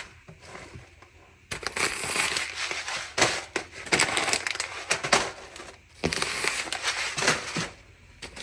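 Crinkling and crushing of something being handled, in two long stretches of rustling with sharp crackles, starting about a second and a half in, with a short break near six seconds.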